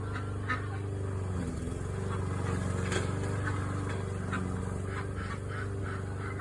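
Young Appleyard and Cayuga ducks quacking now and then, over the steady hum of an engine running.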